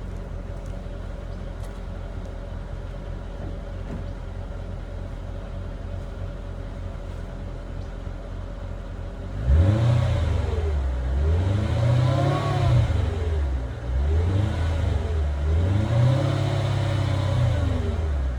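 2005 Mercedes SL500's V8 idling through its stock exhaust, not yet fitted with a Flowmaster muffler, then revved three times from about halfway in, each rev rising and falling back.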